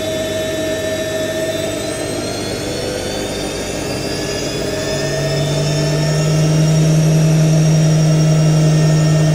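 IKEA Renlig IWM60 washing machine's motor and drum spinning up in an intermediate spin: a motor whine rising steadily in pitch and growing louder, with a strong low hum coming in about halfway. The motor bearings are rough, which the owner hears in this sound.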